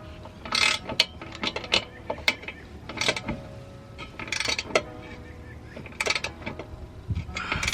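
Hand tools clicking and metal exhaust parts clanking and ringing at irregular intervals as sections of a multi-piece exhaust are fitted and bolted together.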